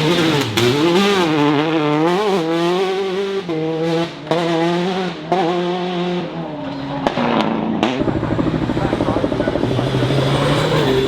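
Rally car engine revving hard, its pitch swinging up and down with brief breaks at gear changes. About eight seconds in it drops to a lower, rougher, pulsing note.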